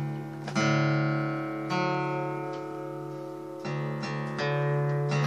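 Acoustic guitar strummed, chords ringing out with fresh strokes every second or two.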